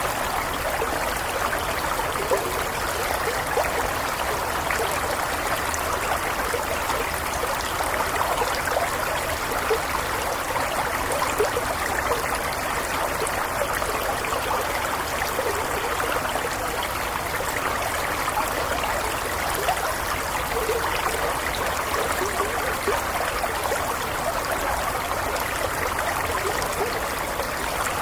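A small stream flowing steadily, its water gurgling and trickling over stones in an even, unbroken rush.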